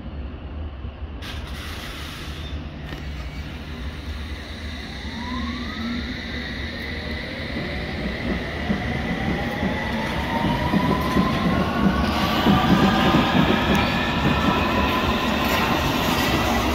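London Underground S-stock electric train pulling away, its traction motors whining and rising in pitch as it gathers speed. Over it, a heavy rumble grows louder in the second half as a Class 66 diesel locomotive approaches.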